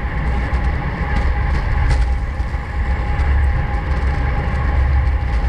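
Wind rumbling on the microphone of a camera on a racing bicycle at speed, over steady road and drivetrain noise.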